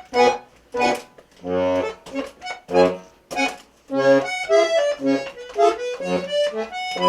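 A tune with a reedy accordion sound, played as short, separate notes and chords, a few a second, by a young player.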